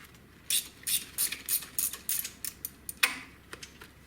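Hand ratchet wrench clicking in a run of quick strokes as a loosened bolt is backed out, with one sharper click about three seconds in.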